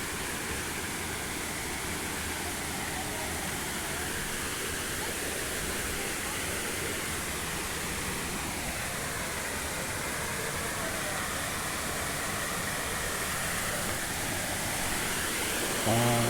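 Steady, even rush of a waterfall's falling water. A voice starts right at the end.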